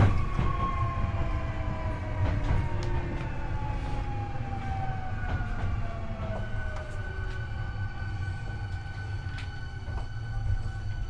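Hankyu 8300 series train's Toyo IGBT-VVVF inverter and induction traction motors whining under braking: several tones fall steadily in pitch for the first six or seven seconds as the train slows, then give way to steady higher tones, over the rumble of wheels on rail. This car's inverter is known for an unusual, markedly high-pitched modulation sound.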